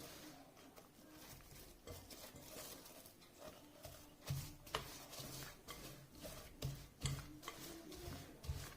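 Plastic cling film being stretched and pressed over a bowl: faint crinkling and rubbing of the wrap, with a few soft knocks from the bowl about halfway through and near the end.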